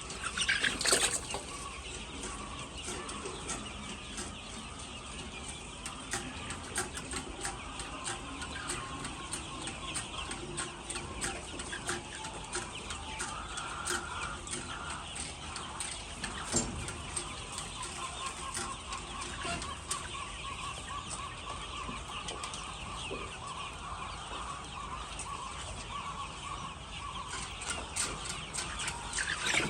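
A flock of laying hens clucking continuously, many birds calling at once, with a louder squawk about a second in.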